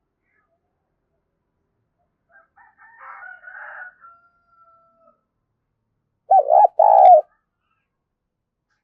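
Spotted dove cooing: two loud, closely spaced coo notes about six seconds in, preceded by fainter, scratchy calling earlier.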